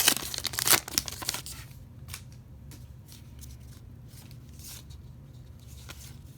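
A foil trading-card pack crinkling and tearing open for about the first second and a half, then the cards softly sliding and clicking against each other as they are flipped through, over a low steady hum.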